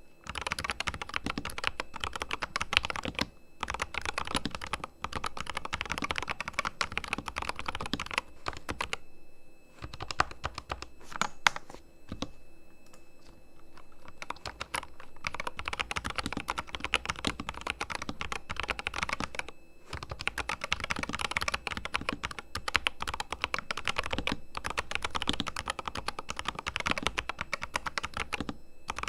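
Corsair K100 RGB mechanical keyboard, its switches fully lubed, being typed on fast in dense runs of keystrokes. Between about nine and fifteen seconds in the typing thins out to a few separate, sharper key strikes before the fast typing resumes.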